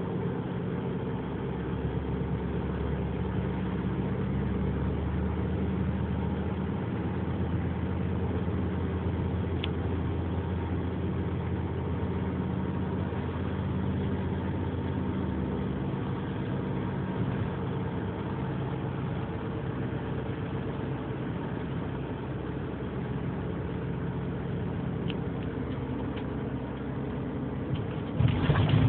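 2003 Nissan Murano's 3.5-litre V6 idling steadily, recorded for the strange clicking, tapping engine noise its owner is trying to show. A brief louder rumble comes near the end.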